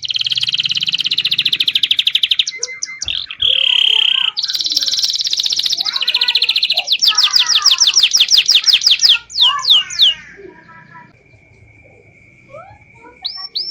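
Local canary singing long, rapid high-pitched trills and rolls with fast sweeping notes. The song breaks off about ten seconds in and starts again near the end.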